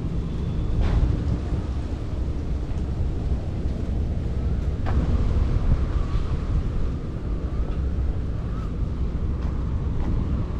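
Wind buffeting the microphone outdoors: a steady, gusting low rumble, with a single faint click about five seconds in.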